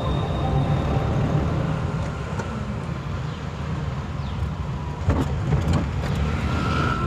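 Low, steady rumble of a motor vehicle running, with a few faint clicks about five seconds in.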